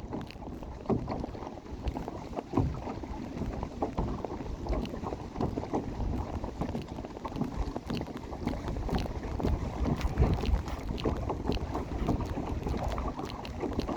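Wind buffeting the microphone over water sounds around a drifting kayak, with many small knocks and splashes against the hull.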